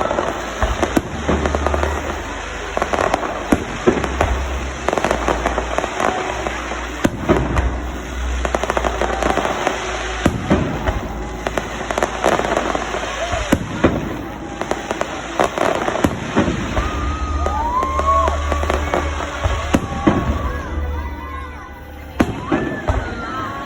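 Fireworks show: aerial shells bursting in a steady run of bangs and crackles, with music playing over loudspeakers and crowd voices underneath. The bursts ease off briefly near the end.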